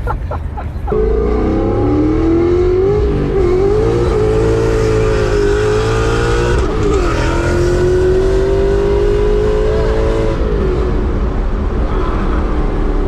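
Supercharged BMW S62 4.9-litre V8 with straight-piped exhaust and Dinan mufflers pulling under load. Its note steps up about a second in, holds a fairly steady pitch with a couple of brief wavers, and drops off about ten seconds in.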